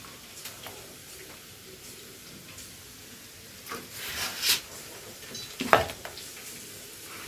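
Food frying faintly in a pan, with small clinks and stirring from a utensil; a louder scrape about four seconds in and a sharp knock just before six seconds.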